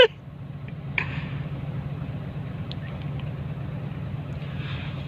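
Heavy diesel engine of a dump truck or excavator running steadily with a low hum, with one brief knock about a second in.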